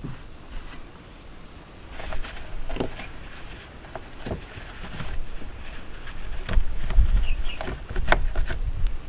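Crickets chirping steadily in a high pulse about twice a second. Over it come scattered clicks and knocks of parts being handled, with low rumble that grows louder in the second half.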